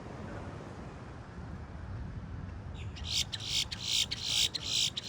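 A bird giving a quick run of harsh, screechy calls, starting about three seconds in, over low steady background noise.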